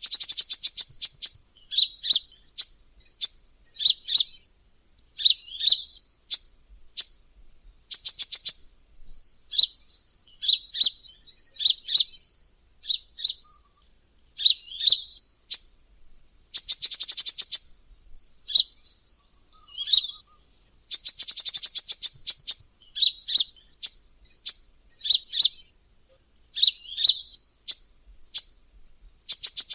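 Sunbird ('kolibri') song from a lure recording: short, high chirps about once a second, broken by rapid trills at the start, about 17 seconds in and about 21 seconds in.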